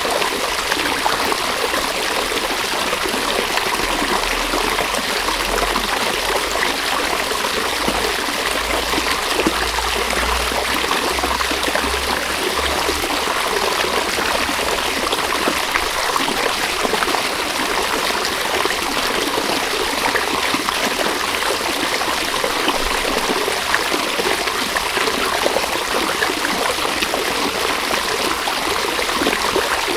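River water running steadily, a continuous rushing and trickling stream. A low rumble underneath comes and goes between about 4 and 13 seconds in.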